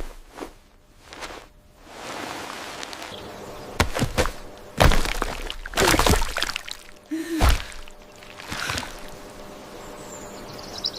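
AI-generated food ASMR sound effects: about two seconds of steady hiss, then several sharp cracks and thuds roughly a second apart.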